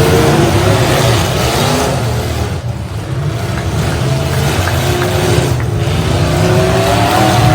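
Derby trucks' engines revving hard. The sound dips briefly about two and a half seconds in, then the engine pitch climbs again toward the end.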